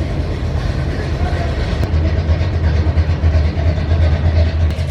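A car engine running at a steady idle, a constant low rumble.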